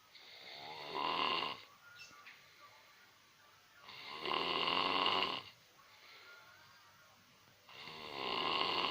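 Snoring: three long snores, each building up over about a second and then cutting off, coming about every four seconds.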